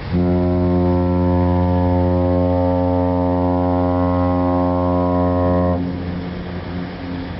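One long, steady blast of a ship's horn, low-pitched and rich in overtones, cutting off sharply near the end and leaving a fainter low hum; a prolonged blast like this is a ship's fog signal in mist.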